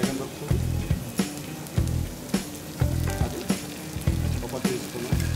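Chopped vegetables sizzling as they fry in a nonstick pan, over background music with a steady beat a little under twice a second.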